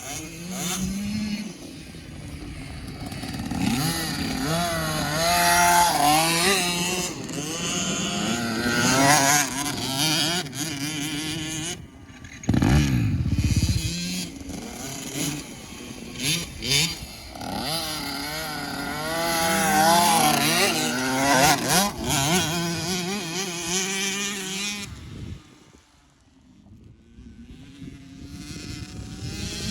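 Dirt bike engines revving up and falling off again and again, rising and falling in pitch, with a brief low rumble about twelve seconds in and a short lull near the end.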